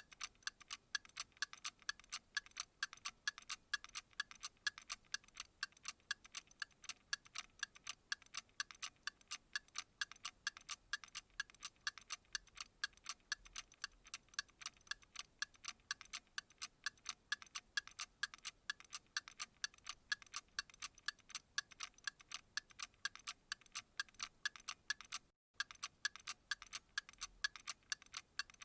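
Clock ticking steadily, about four crisp, even ticks a second, with a brief dropout about 25 seconds in.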